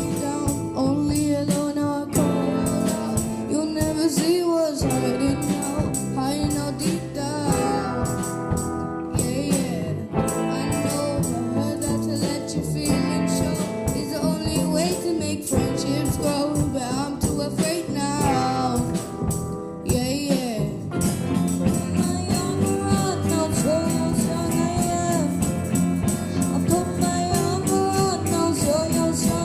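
Live soul band playing a song, with a singer's voice over instruments and a steady beat.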